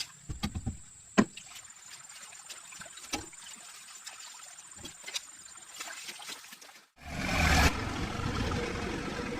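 Scattered light clicks and knocks. After a sudden cut about seven seconds in, a motor starts running steadily with a low rumble.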